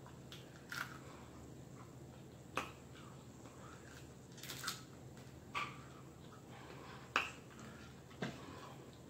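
Eating sounds of fried fish being chewed: a handful of short, sharp crunches and mouth clicks, spaced a second or two apart, over a quiet background.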